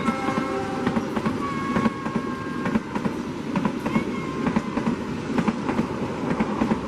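Train passing at speed: a rapid, continuous clatter of wheels over rail joints over a steady rumble. The tail of a horn blast fades out in the first second.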